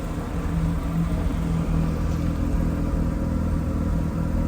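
Mazda RX-7 FD RS-R's twin-turbo 13B-REW rotary engine running steadily with a low, even drone.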